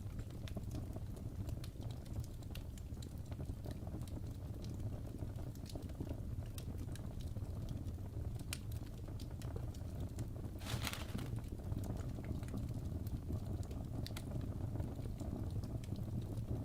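Wood fire burning in a fireplace: a steady low rumble with irregular sharp crackles and pops, and a louder burst of crackling about eleven seconds in.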